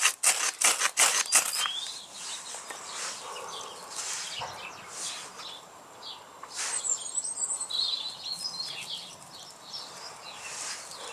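Hand drill fire-lighting spindle being spun against a wooden hearth board: rapid rhythmic rubbing strokes, about four or five a second, that stop after about a second and a half. Small garden birds then chirp and twitter on and off.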